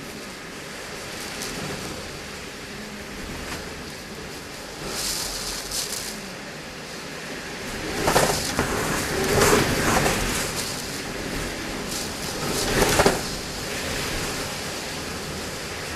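Typhoon wind and rain making a steady rushing noise, with stronger swells about halfway through and again near the end.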